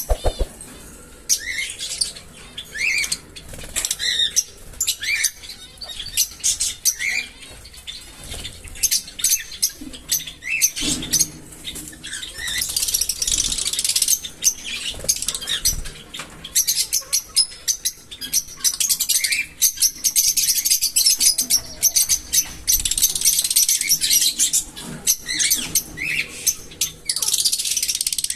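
Small pet parrots chirping and chattering: many short rising chirps, with longer stretches of dense, high, busy chatter and a steady run of quick clicks and rustles.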